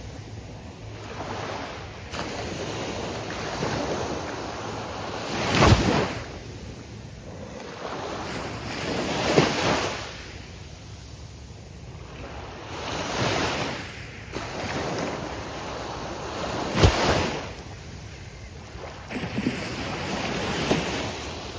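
Gulf of Mexico surf breaking on the beach, a wave crashing and washing in about every four seconds, five in all.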